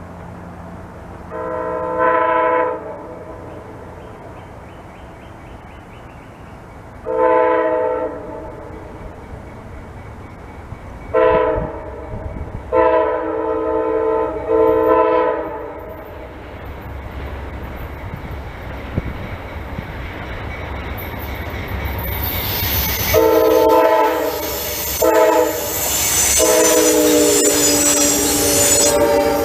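Locomotive multi-chime air horn sounding long, long, short, long blasts, the standard grade-crossing signal, as a train approaches. Over the last several seconds the train passes close with growing rail noise and a high wheel squeal, and the horn blows again, long, short, long.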